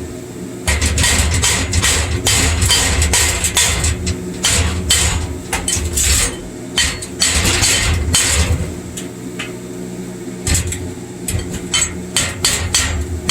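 Chipping hammer knocking slag off an arc weld: rapid, irregular metal-on-metal taps in quick runs, with a lull a little before the end, over a steady low hum.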